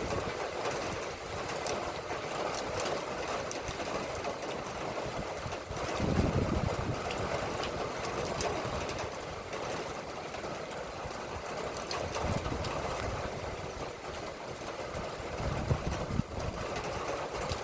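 Steady rain falling, a continuous hiss dotted with many small drop ticks, with a brief low rumble about six seconds in.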